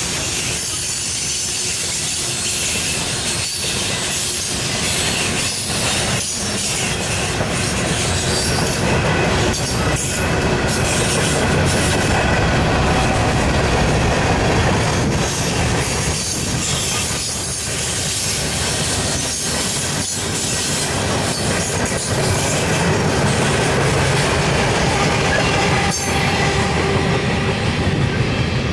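Norfolk Southern freight cars, coal hoppers and covered hoppers, rolling past on steel wheels: a steady loud rumble and rattle with repeated clicks as the wheels cross rail joints.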